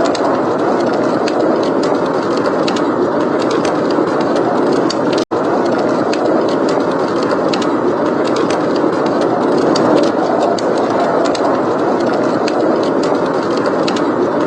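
Steady rushing blizzard wind, with a wood fire crackling over it in many small, irregular pops. The sound breaks off for a split second about five seconds in.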